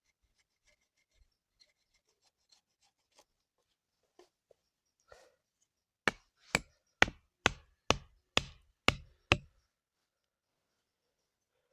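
A series of eight sharp knocks, about two a second, like a tool striking something hard, after a few seconds of faint light clicks and taps.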